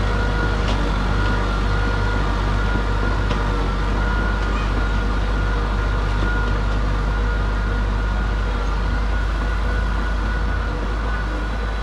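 Heavy diesel engine of earthmoving machinery running steadily: a deep, even drone with a thin steady whine above it, easing off slightly near the end.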